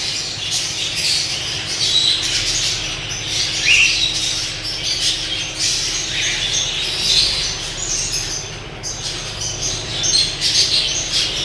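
Budgerigars chirping and chattering continuously, many short calls and squawks overlapping, over a steady low hum.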